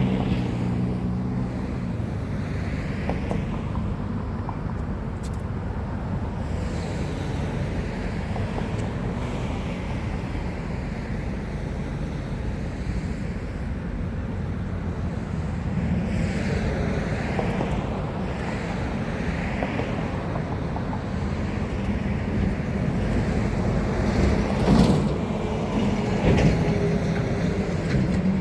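Steady low rumble of an engine and road traffic, with a droning hum and vehicles passing by around the middle. Two short knocks come near the end.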